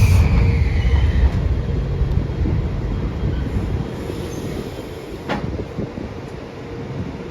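Metro-North commuter train moving through the station, its low rumble fading away over the first few seconds. A high whine or wheel squeal dies out about a second in, and there is a single sharp click about five seconds in.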